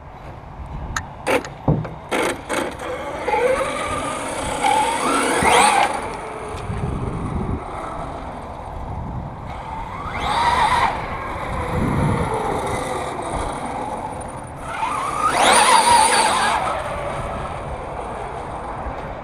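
1/5-scale Redcat Rampage MT V3 RC monster truck driving, its drivetrain rising in pitch in three hard bursts of throttle. A few sharp clicks come near the start.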